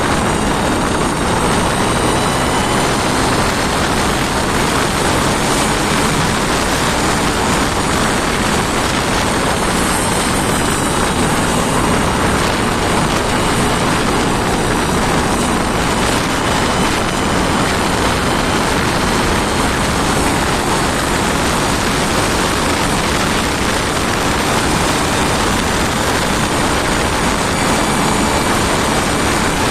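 An engine on a test run, running loudly and steadily at a constant speed with no revving.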